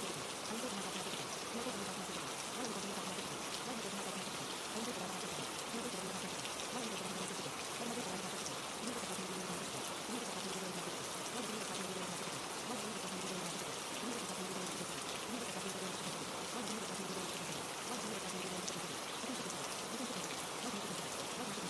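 Steady rain, an even hiss of falling drops with no let-up, with faint murmured speech layered beneath it: quiet repeated subliminal affirmations.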